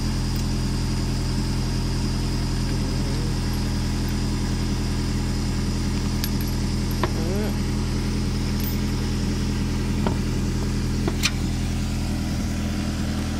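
Car engine idling steadily, with a few sharp metallic clicks as lug nuts are spun off a wheel by hand and set down.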